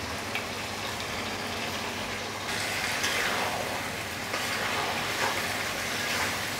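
Raw chicken pieces sizzling in oil and spice paste that has been fried until the oil separates, in an aluminium karahi. More pieces go in and the sizzle grows louder about two and a half seconds in, then a metal spatula stirs the pan in repeated scraping strokes.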